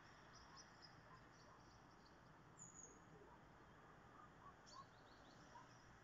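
Faint, high chirps and calls of small songbirds, scattered, with a quick run of notes near the end, over a steady background hiss.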